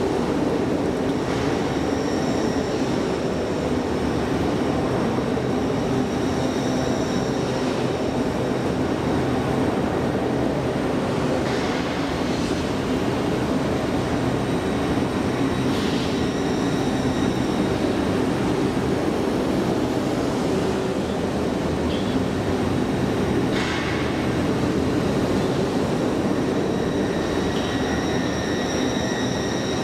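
A train running at a station, a steady dense hum and rumble with high thin squeals that come and go, and a few short clicks.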